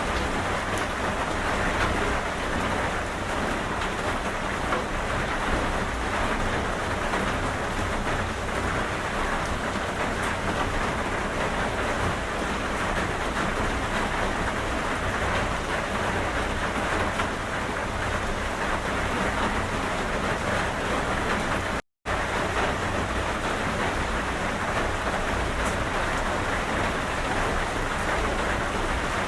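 Steady rain falling in a dense, even hiss. The sound drops out completely for a split second about three quarters of the way through.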